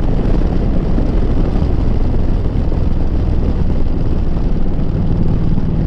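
Harley-Davidson Street Glide's 96-cubic-inch V-twin running through a Rinehart 2-into-1 single-side exhaust while riding, its steady low note mixed with heavy wind rush on the helmet microphone.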